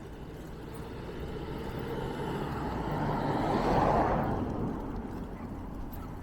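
A vehicle passing by, its noise swelling to a peak about four seconds in, then fading away.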